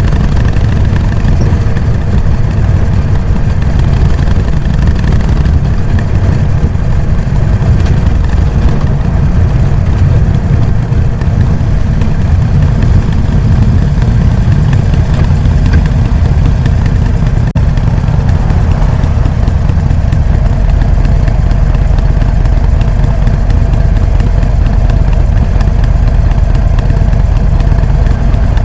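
Harley-Davidson Sportster Iron 883 (XL883N) air-cooled V-twin running through its stock exhaust, a steady low-pitched beat.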